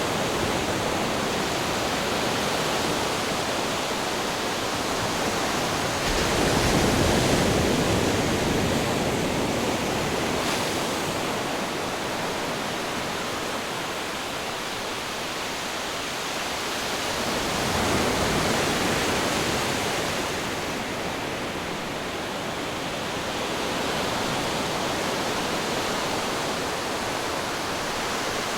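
Ocean waves and wind: a steady rushing noise that swells twice, about six seconds in and again about eighteen seconds in, as waves build and wash in.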